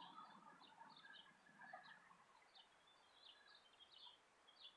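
Faint, near-silent outdoor background with small birds chirping in short, high notes throughout. A faint low hum fades out about two seconds in.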